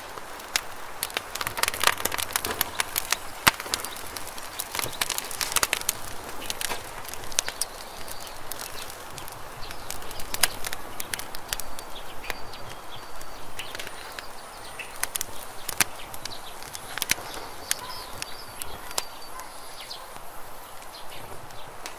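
Wood campfire burning, crackling with frequent sharp pops and snaps over a soft hiss of flame. Faint bird chirps come through in the background in the second half.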